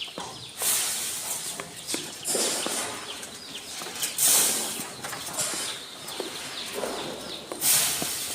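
Sheep at feed on a grain mix, with steady rustling and shuffling and four louder bursts of scraping, pouring-like noise.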